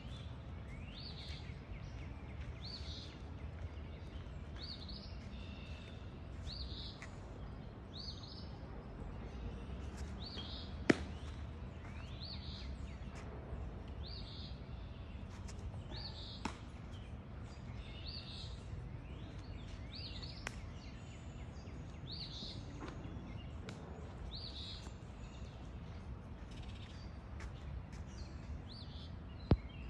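A bird calling over and over, a short high rising note about once a second, over a steady low rumble of outdoor noise. A few sharp clicks cut through, the loudest about eleven seconds in and another just before the end.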